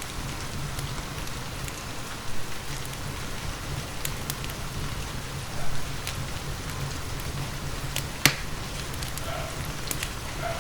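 Steady rain falling, with the scattered crackles and pops of a wood fire in a fireplace; one sharp pop stands out about eight seconds in.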